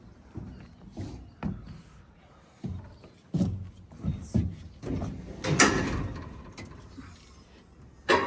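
Irregular knocks and clunks, with a louder clattering bang about five and a half seconds in and a sharp knock near the end.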